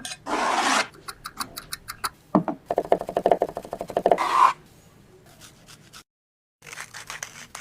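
Kitchen handling sounds while a butter sauce is mixed: a short rustle, scattered clicks, then a quick run of rapid clicks from a utensil working in a bowl.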